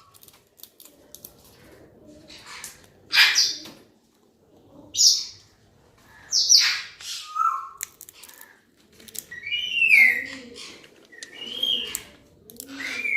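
Pet parrots calling: a few loud, harsh screeches a second or two apart, then a run of shorter calls that rise and fall in pitch near the end.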